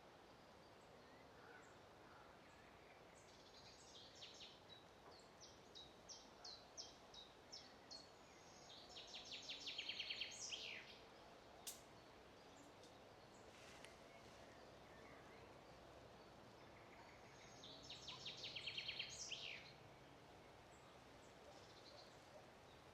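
A songbird singing: a string of separate high chirps, then a fast trill ending in a downward flourish about ten seconds in, repeated once near the end, over a faint outdoor background hiss.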